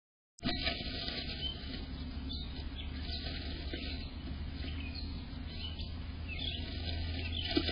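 Faint, scattered short calls of tree swallows over a steady low hum and hiss, after a brief dropout to silence at the very start.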